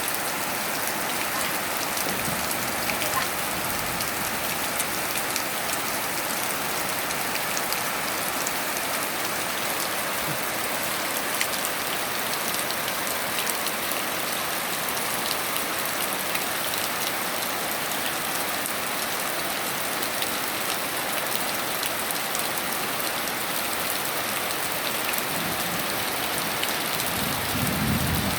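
Steady rain falling on surfaces, with single drops ticking through it. A low rumble rises near the end.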